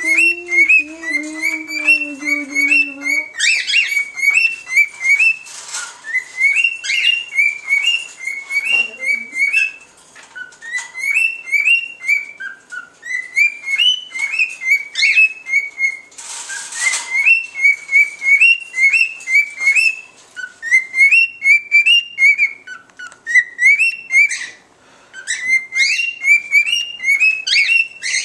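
Cockatiel whistling and chirping in a quick, almost unbroken run of short rising notes. A low steady tone sounds under it for the first three seconds, and a few brief noisy rustles break in.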